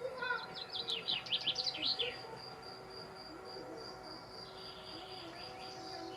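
A cricket chirping in a steady, evenly pulsed high trill, while a songbird sings a quick run of falling whistled notes for about the first two seconds.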